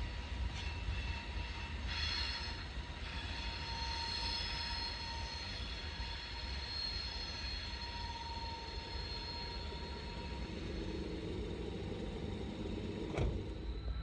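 Freight train of tank cars rolling past, a steady rumble with thin high wheel squeal coming and going. A single sharp click sounds just before the end.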